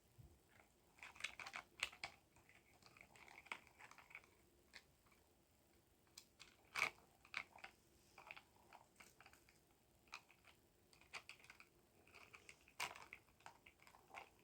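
Faint, irregular clicks, taps and rustling of small hard objects being handled, with a few sharper clicks about 2 s, 7 s and 13 s in.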